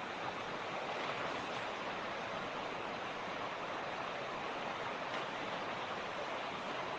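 Mountain creek rushing steadily over rocks, an even, continuous water noise with no change in flow.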